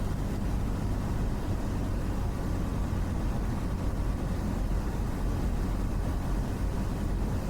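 Cessna 172's piston engine and propeller droning steadily in flight, a constant low hum with a noisy hiss over it.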